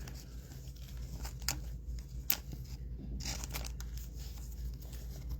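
Trading cards and foil pack wrappers being handled, with soft rustles and small scattered clicks over a low steady hum.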